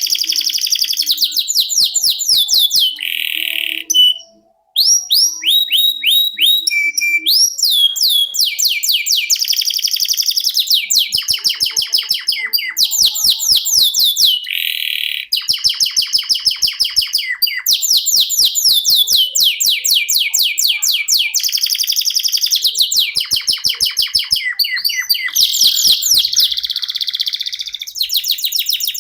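Domestic canary singing long rolling trills: fast runs of quickly repeated falling notes, one tour after another. The song breaks off briefly about four seconds in, then carries on.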